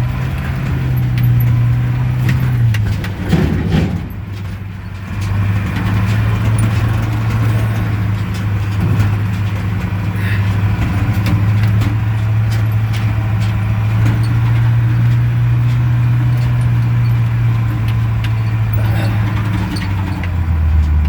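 Dump truck engine running under load with a steady low drone. Its pitch and loudness dip briefly about three seconds in, then hold steady, and the note drops lower near the end. A few short clanks come around the dip.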